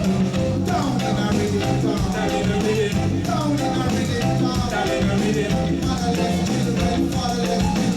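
Live reggae band playing, with a steady bass line and percussion under melodic lines.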